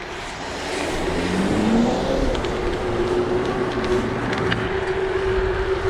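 A hum that rises in pitch for about a second, then holds one steady tone, over a continuous rush of wind and road noise while riding along.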